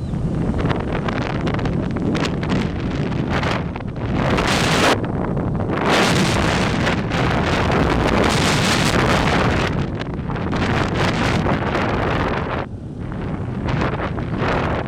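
Wind buffeting the microphone on a moving motorcycle, rushing in gusts that swell and ease, over a constant low rumble of the ride.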